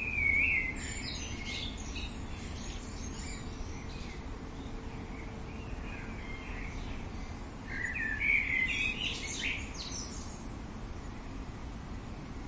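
A songbird singing two phrases of quick, varied chirping notes, one right at the start and one about eight seconds in, over a steady outdoor background hiss.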